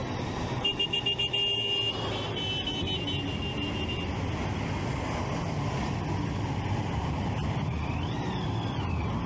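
Motorcycle engine running with steady wind and road rumble on the move. About a second in comes a rapid run of high beeps, and near the end a short tone that rises and then falls.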